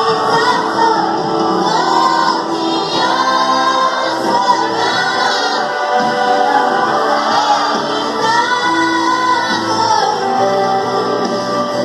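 Gospel song sung by two female voices over backing music, the melody lines held and sliding continuously.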